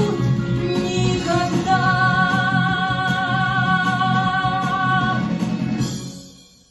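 Closing bars of a pop song: a singing voice holds one long final note over the band's accompaniment, then the music fades out about six seconds in.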